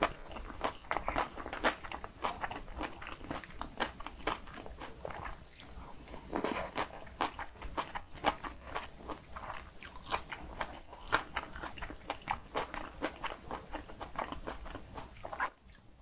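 Close-miked chewing of bibimbap with crunchy raw radish salad (mu saengchae) and cockles: a dense run of small wet clicks and crunches.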